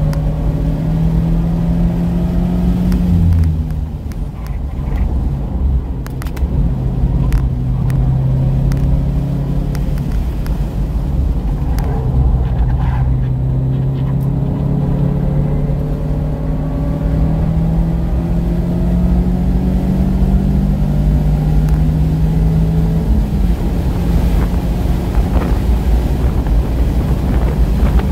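2017 Mazda MX-5 RF's 2.0-litre four-cylinder engine under hard track driving, heard from inside the cabin over tyre and road noise. Its note drops as the driver lifts about three seconds in, then climbs steadily through third gear. It dips briefly at the upshift to fourth and climbs again.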